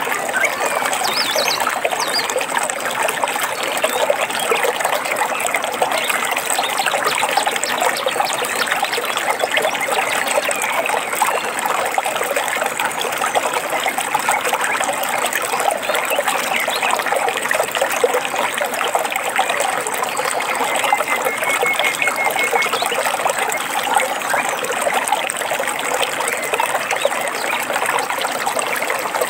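Water trickling and babbling steadily over stones, like a small stream, with a few faint bird chirps.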